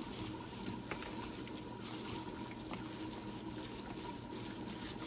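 Faint wet squishing of raw chicken pieces being mixed by hand with curry powder and seasonings, with a couple of light ticks over a steady background hum.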